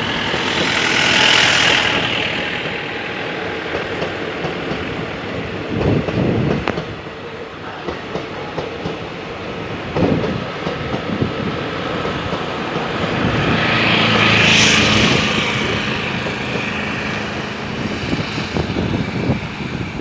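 A train passing on the railway line, its wheels rumbling and knocking over the rail joints, with the noise swelling twice as the carriages go by.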